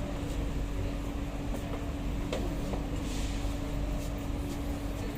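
Inside a stationary SMRT C151A train car: a steady hum from the car's onboard systems over a low rumble, with a few faint clicks.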